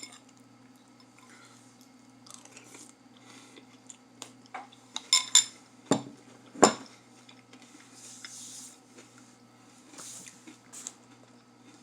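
A spoon clinking and scraping against a bowl of crunchy cereal, with a cluster of sharp clicks in the middle, and quiet chewing of the cereal. A steady low hum runs underneath.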